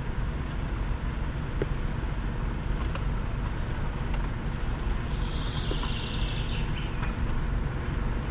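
A songbird in beech woodland sings one falling trill lasting about two seconds, starting about five seconds in. A steady low rumble runs underneath.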